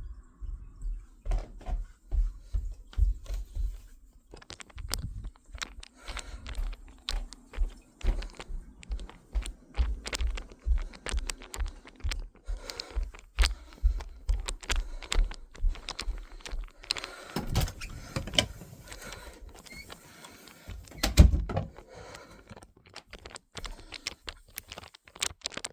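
Irregular clicks, knocks and low thumps of objects being handled, the loudest thump about 21 seconds in; no vacuum motor running.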